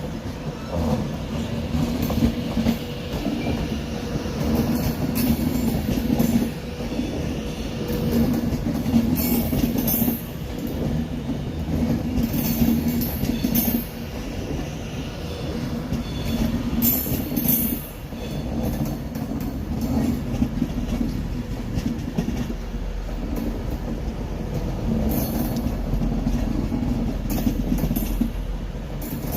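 Train running in the station: a steady low rumble with short high-pitched bursts every few seconds.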